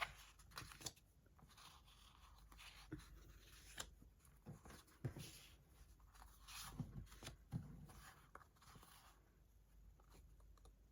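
Near silence with faint rustling and scattered light taps as sticker sheets and their packaging are handled.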